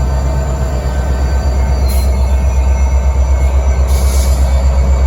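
A train rolling past: heavy steady rumble with thin, steady squealing tones from the wheels on the rails and a pulsing beat. Short bursts of hiss come about two and four seconds in.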